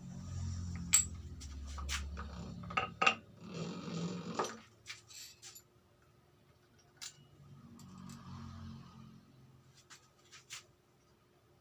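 Small metal engine parts and tools being handled, with a dozen or so sharp clinks and knocks against each other and a hard surface, most of them in the first five seconds, over a low handling rumble.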